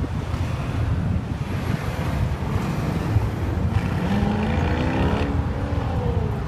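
Car traffic: a steady low rumble of engines and road noise with wind on the microphone. About four seconds in, an engine's pitch climbs and then drops away again over about two seconds.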